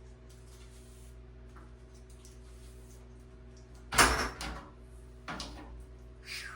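A few sudden knocks or clatters over a steady low hum. The loudest comes about four seconds in, a second follows about a second later, and a shorter, thinner one comes near the end.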